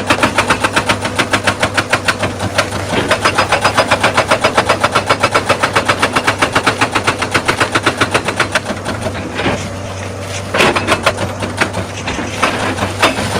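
Excavator-mounted hydraulic rock breaker hammering on stone in a rapid, steady rhythm of about six or seven blows a second, over the excavator's diesel engine running. The hammering stops about two-thirds of the way through, then comes back in a few short bursts.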